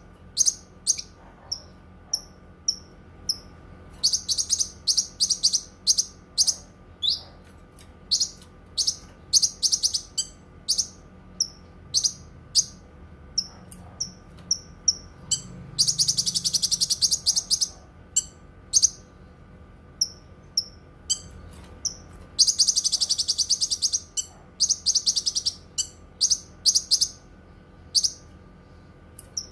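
Cucak kinoi singing: a run of quick, high chirps and short notes, broken twice by a long, rapid trill, the 'nembak panjang' or long shooting phrase.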